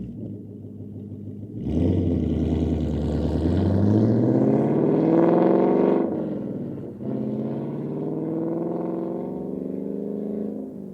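2024 Ford Mustang GT's 5.0-litre V8 running through an MBRP 3-inch cat-back exhaust under throttle. The note jumps up in loudness about two seconds in and climbs in pitch for several seconds, drops sharply about six seconds in, then carries on as a steadier, slowly falling drone.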